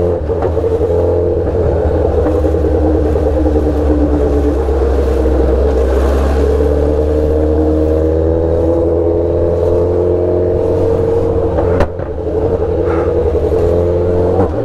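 Remapped Honda sport motorcycle's engine running at low speed in traffic, a steady drone whose pitch rises slowly midway. A short sharp click with a brief dip in loudness comes about twelve seconds in.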